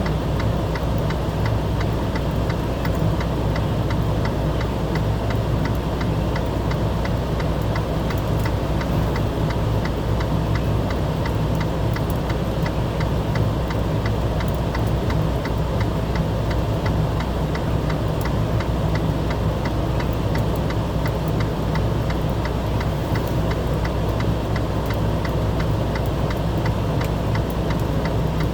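An engine running steadily, with a low hum and a fast, even ticking.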